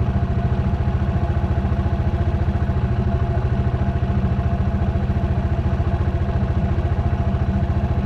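Dirt bike engine running steadily, its note even and unchanging with no revving.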